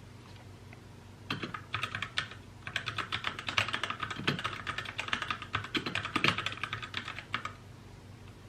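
Typing on a mechanical keyboard: rapid clicking keystrokes in two stretches, a short run starting just over a second in, a brief pause, then a longer, busier run that stops about a second before the end.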